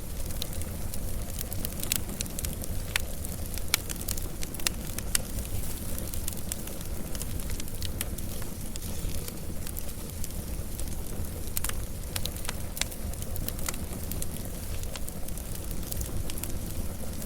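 Wood fire burning, with a steady low rumble of flames and frequent irregular sharp crackles and pops.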